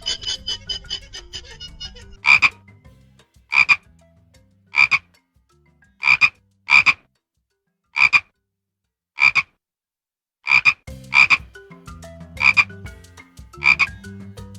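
An animal's short, sharp calls, repeated about every second and a quarter, a few of them in quick pairs.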